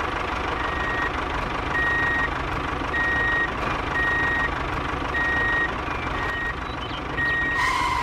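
Vehicle reversing alarm beeping about once a second, a single high tone over the steady rumble of an engine.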